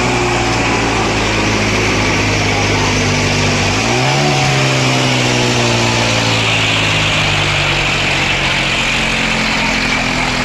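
Diesel tractor engine running steadily, revving up briefly about four seconds in and then slowly easing back down.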